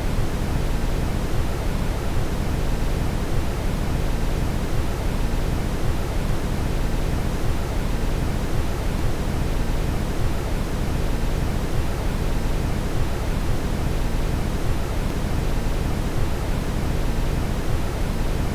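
Steady brown noise: an even, unchanging hiss weighted heavily toward the low end, with no breaks or changes.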